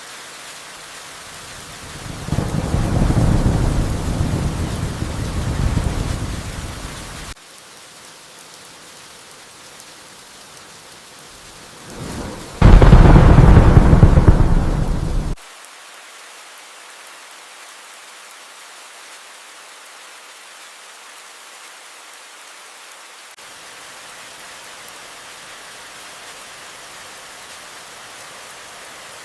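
Steady rain with two peals of thunder: a rolling rumble from about two seconds in to about seven, then a louder crash about twelve seconds in, each cutting off suddenly.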